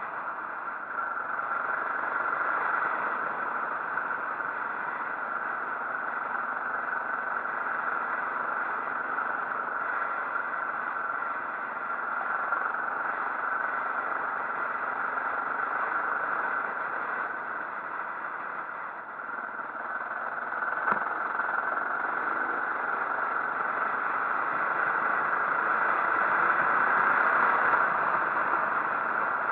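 Motorcycle running steadily on the move, heard as a continuous rushing noise with little change, and one sharp click about 21 seconds in.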